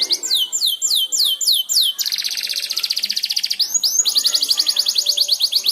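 Domestic canary singing a chain of trills: about six sweeping falling notes a second, then a very fast buzzing trill about two seconds in, then a fast rolling trill of rising notes, the 'ngeriwik' trill style.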